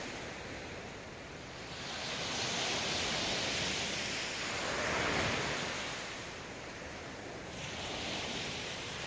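Sea waves breaking and washing on the shore in slow surges, each swelling and fading over a few seconds, the strongest about five seconds in.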